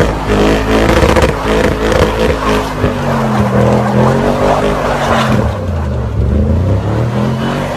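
Audi RS6 engine revving hard as the car drifts on snow. From about three seconds in, the engine pitch sinks and climbs again in slow swells, and the hiss above it thins out near the end.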